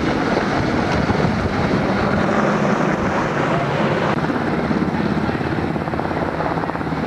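Helicopter flying close by, its rotor and engine making a loud, steady noise.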